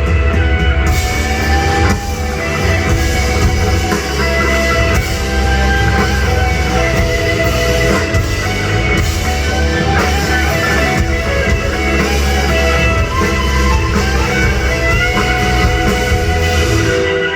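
Live rock band playing loudly, with electric guitar over a heavy drum and bass low end.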